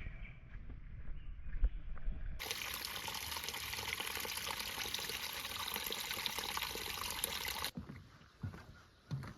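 Creek water trickling, a steady hiss that cuts in suddenly a couple of seconds in and stops abruptly near the end. Low rumble before it, and a few low thumps after it.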